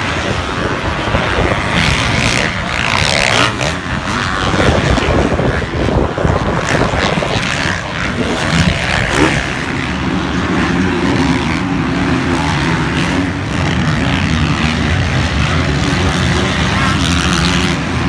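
Motocross bike engines running; from about ten seconds in a steady engine note holds.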